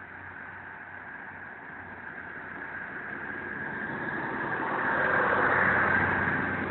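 Diesel railcar running into the platform and passing close by, its engine and running noise over a steady low hum growing louder to a peak about five seconds in, then easing slightly as the coaches go by.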